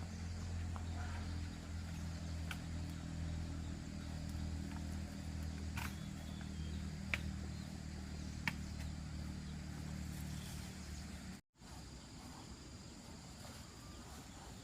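A small engine running steadily with a low hum, with a few sharp clicks over it; it cuts off abruptly about eleven seconds in, leaving faint outdoor noise.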